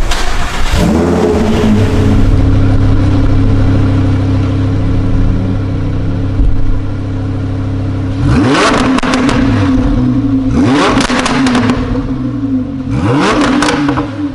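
Lamborghini Huracán LP610-4's 5.2-litre V10 breathing through an Akrapovič titanium exhaust: the revs swell up about a second in and settle into a steady idle, then three sharp throttle blips follow, each rising and falling back to idle.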